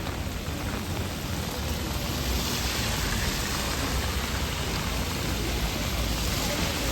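Steady heavy rain falling on an umbrella, growing a little louder about two seconds in.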